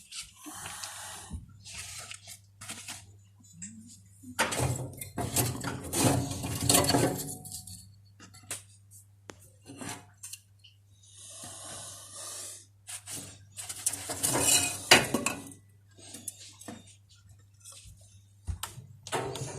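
Hard objects clattering and clinking as they are handled, in two longer bursts of knocks and chinks with brief scraping sounds between them. A low steady hum runs underneath.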